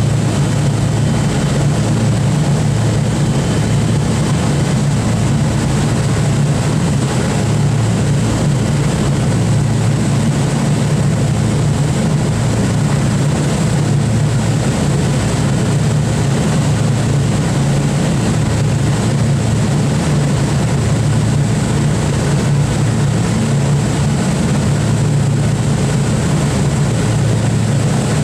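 The Boeing B-29 Superfortress's four Wright R-3350 radial piston engines and propellers running with a steady, loud, deep drone that does not rise or fall.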